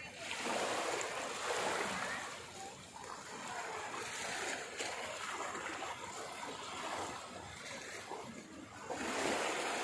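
Rushing, splashing water, swelling and easing, with a few faint chirps over it.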